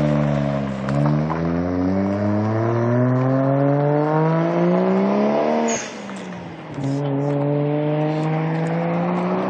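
Toyota 1JZ-GTE twin-turbo inline-six engine pulling hard under full throttle, its pitch climbing steadily for about five seconds. It drops sharply with a brief high chirp and a second of quieter sound at the gear change, then climbs again in the next gear.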